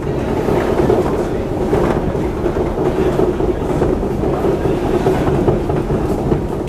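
Prague metro line A train running through the tunnel, heard from inside the carriage: a steady, loud rumble with a constant low hum.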